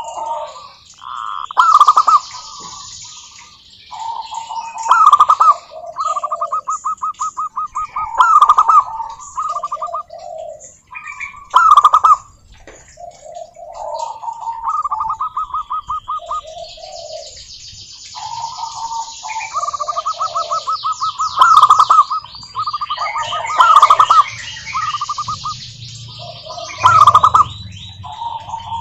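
Zebra doves (perkutut) singing over and over, with overlapping song phrases of fast rolling trill notes and loud accented coos every few seconds.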